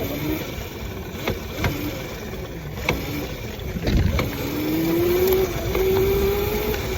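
Small motorbike running, its motor note rising about four seconds in as it speeds up, then holding steady. A low rumble and a few sharp knocks run through it.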